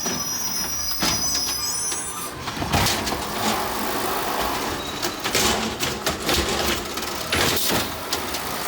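Garbage truck at work: a high squeal in the first second or so, then steady mechanical noise broken by repeated clanks and knocks.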